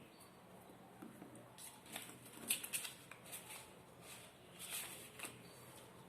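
Soft, scattered rustling and small clicks of paper being handled, with a louder cluster of crinkles about halfway through.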